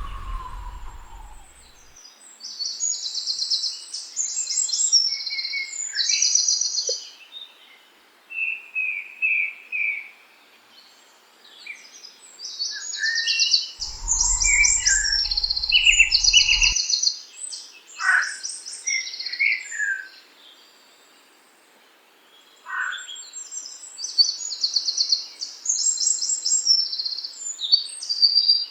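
A songbird singing repeated phrases of fast, high trills a few seconds long, with pauses between them and lower chirps and single notes scattered in. A low rumble with a mid-pitched tone comes in briefly at the start and again about halfway through.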